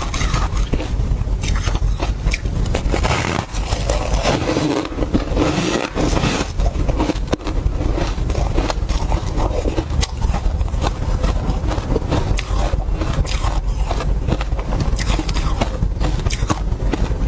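Refrozen tartary buckwheat ice being scraped and crunched, a steady stream of dense, irregular crackles and scrapes over a low rumble.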